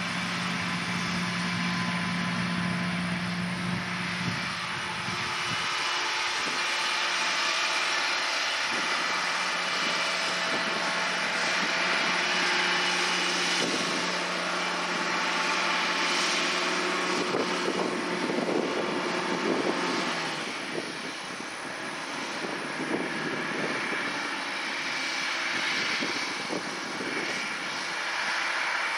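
Large John Deere 8R-series tractors pulling reversible moldboard plows, their engines running steadily under load. A low hum sits under the drone and drops away about twenty seconds in.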